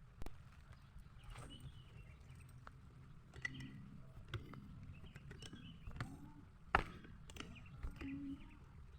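Faint outdoor ambience with scattered short bird chirps and a few soft clicks and rustles, the sharpest click about three-quarters of the way through.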